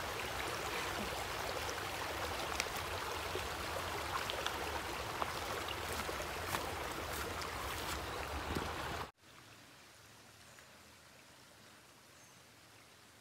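Stream water running over rocks: a steady rushing with scattered small clicks. About nine seconds in it cuts off suddenly to a much quieter, faint outdoor background.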